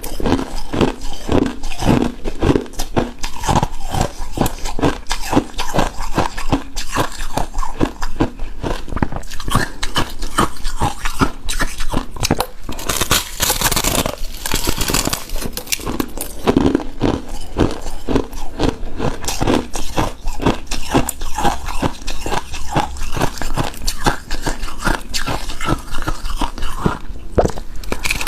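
Close-miked chewing and crunching of a shaved-ice dessert: a dense, continuous run of crisp, crackly crunches, with a brighter, hissier stretch about halfway through.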